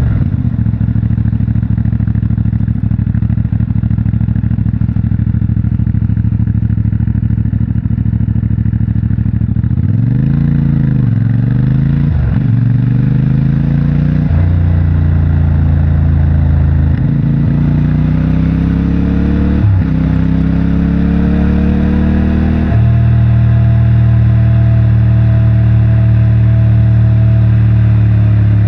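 CFMOTO 450MT's 449 cc parallel-twin engine through its stock exhaust, running steadily at low revs for about ten seconds. The revs then rise and fall twice, and the bike accelerates through three upshifts before settling to a steady cruise for the last few seconds.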